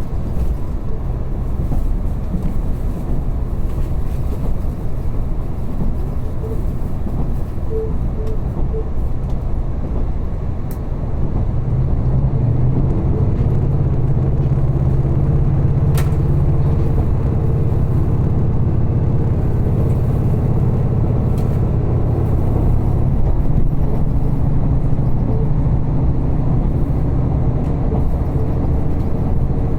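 Steady running rumble of a diesel train on the Soya Main Line, heard inside the carriage: engine and wheels on the rails. About eleven seconds in, a low engine drone comes in and the overall sound grows louder, and there is a single sharp click a few seconds later.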